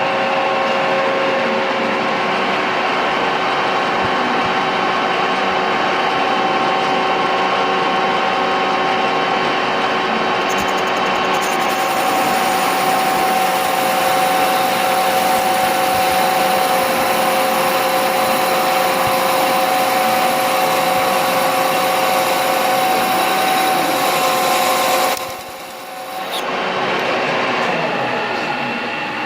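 IZH 1I611P lathe parting off a steel shaft with a 3 mm insert parting tool at 630 RPM, fed by hand: a steady cutting hiss with several steady tones under it and no chatter, a sign of a rigid setup. Near the end it dips briefly, then picks up again more quietly.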